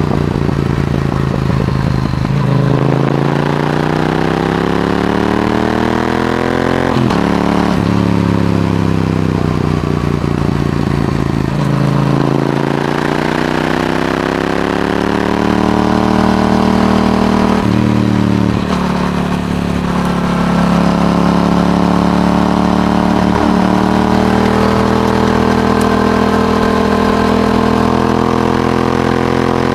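Yamaha R7's 689 cc parallel-twin engine through an aftermarket Akrapovic exhaust, with the motorcycle under way. The engine pitch climbs and then breaks off several times as it upshifts through the gears. In the last third it holds a steadier cruising pitch.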